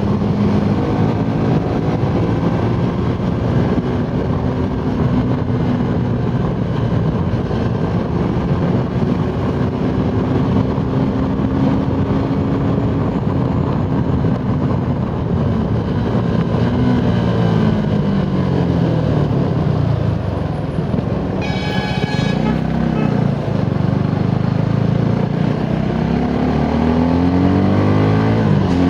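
Suzuki Gixxer SF 250's single-cylinder engine pulling at high speed under heavy wind rush. Its pitch drops for a couple of seconds past the middle as the bike slows. A horn sounds briefly, then the revs climb steadily again near the end.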